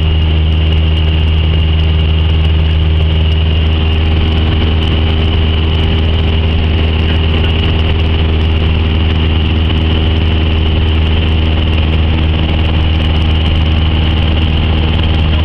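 Cessna 172's four-cylinder piston engine and propeller running steadily, heard from inside the cabin as a loud, constant drone with a strong low hum.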